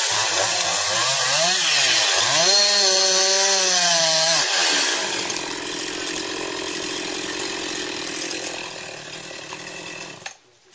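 Chainsaw limbing branches. The engine runs loud at high revs, its pitch wavering up and down, then about five seconds in drops back to a quieter, steadier run and cuts off about ten seconds in.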